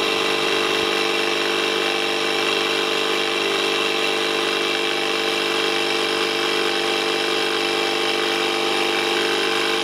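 Yokaro portable 12-volt tire inflator running steadily, its small motor-driven piston pump filling a car tire toward a preset 35 psi.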